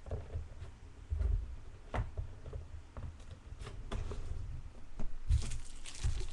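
Handling noise as baseball cards and boxes are moved about: scattered light knocks and a few clicks, with a short rustle near the end.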